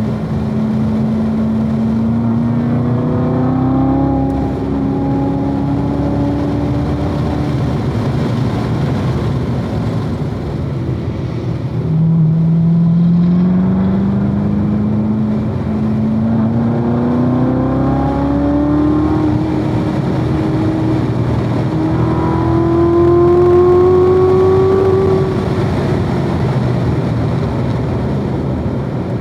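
2016 Corvette Z06's supercharged 6.2-litre V8 pulling hard, its pitch climbing steadily through a long acceleration. It eases off about eight seconds in, then climbs again through a longer, louder pull from about twelve seconds and falls away near the end.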